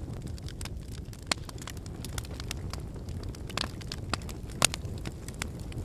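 Wood fire burning: a steady low rumble of flames with irregular sharp crackles and pops of burning logs, the loudest pop about two-thirds of the way in.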